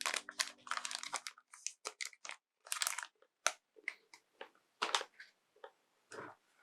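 Close-up handling noise from replacement headphone ear pads being worked by hand: irregular crinkling, scratching and small clicks, a few strokes a second, with brief pauses between them.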